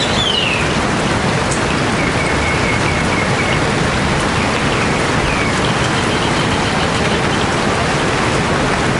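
Steady heavy rainfall. Birds call over it: a falling call at the start, a quick run of short repeated notes a few seconds in, and a fast trill later.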